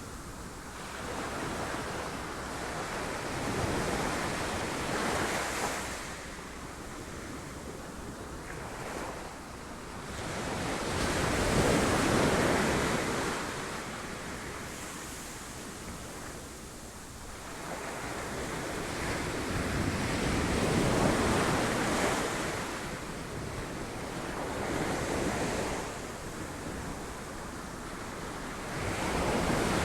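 Ocean waves crashing on rocks, the surf surging and falling back in slow swells every several seconds, with the strongest surge about twelve seconds in. Wind buffets the microphone.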